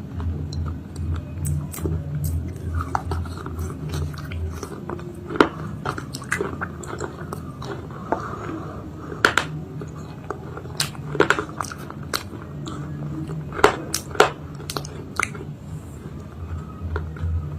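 Close-miked biting and chewing of a hard, baked chalk and clay paste 'cake' (red and white khari): sharp, separate crunches and crackles as pieces break between the teeth, the loudest few about halfway through and again near the end.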